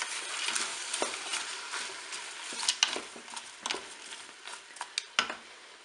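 Sliced leeks, onions and scallops sizzling in hot olive oil in a Cookeo multicooker bowl on its browning setting, stirred with a wooden spoon that scrapes and knocks against the bowl. The sizzle dies down toward the end.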